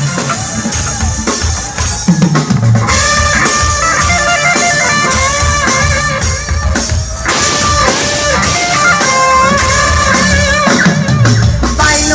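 Live band playing a song: drum kit with kick drum keeping a steady beat under guitar, with a held, wavering lead melody coming in about three seconds in.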